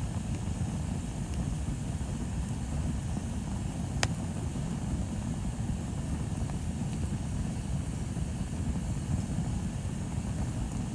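Bonfire burning: a steady low rumble with one sharp crackling pop about four seconds in and a few faint ticks.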